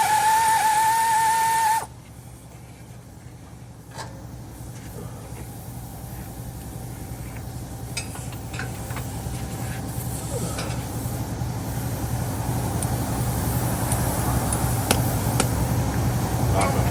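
Shop air compressor running: a steady low hum that slowly grows louder, with a few scattered clicks. A bit of music plays in the opening second or two and cuts off abruptly.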